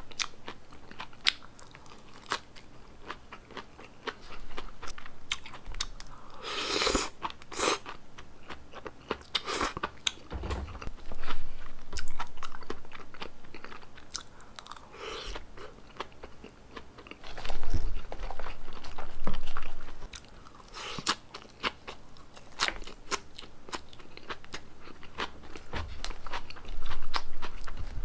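Close-miked chewing of a poke bowl's crisp lettuce, red cabbage and vegetables: a dense run of crunching and crackling bites, louder in several spells.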